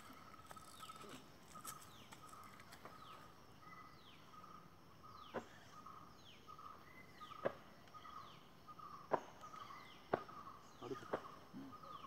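Faint wild birdsong: one bird repeats a short note about twice a second while others give high whistles that fall in pitch. A few sharp clicks sound in the second half.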